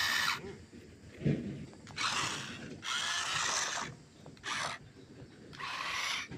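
Small electric motor of a remote-control toy dump truck whirring in short bursts, starting and stopping four times, with a soft knock about a second in.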